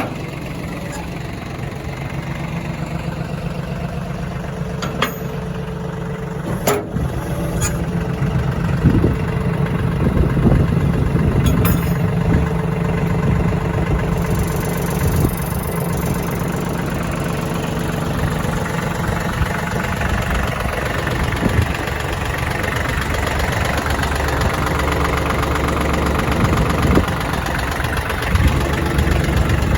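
Tractor engine running steadily, growing a little louder about eight seconds in, with a few sharp clicks in the first dozen seconds.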